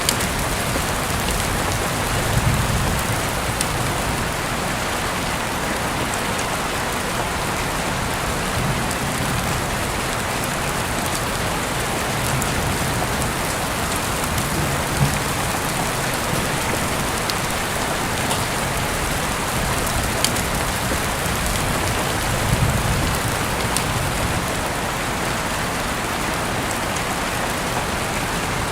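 Heavy rain falling steadily, with scattered drop taps standing out from the hiss and a few brief low swells.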